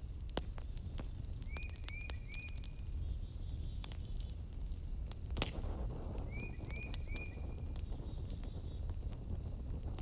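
Wood fire in a fireplace crackling, with scattered sharp pops and one louder pop about halfway through. Twice a short chirp sounds three times in quick succession over the fire, with a faint steady high-pitched tone in the background.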